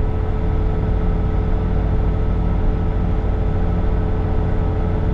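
Bobcat T66 compact track loader's diesel engine held at about 2,600 RPM while it drives a snow blower attachment: a loud, steady drone with a constant whine over it.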